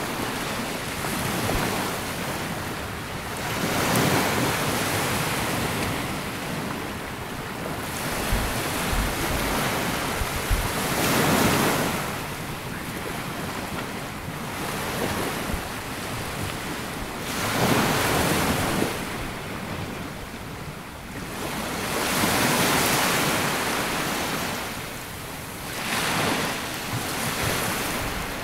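Sea waves washing in on a sandy beach, each wash swelling and ebbing about every five to six seconds.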